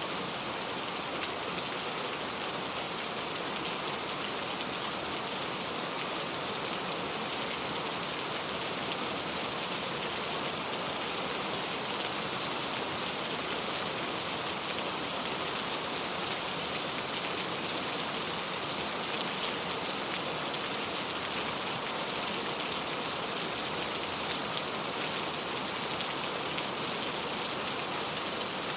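Steady rain falling and pattering on surfaces, a dense even hiss of drops with fine individual drop ticks.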